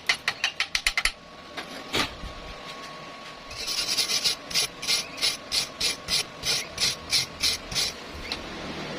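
A fast run of clicks, about seven a second, that stops about a second in, then a single knock. From about three and a half seconds there are rhythmic hand scraping strokes, about three a second, a rasping sound like brushing or filing, which end near eight seconds.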